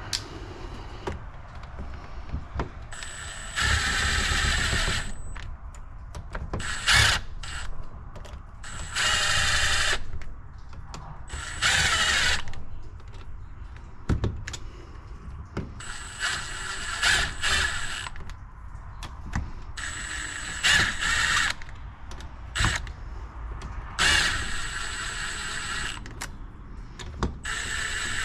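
Powered ratchet or driver running in short bursts of one to two seconds, about eight times, with a steady high whine, driving bolts on a pressure washer pump. Small clicks and knocks of handling fall between the bursts.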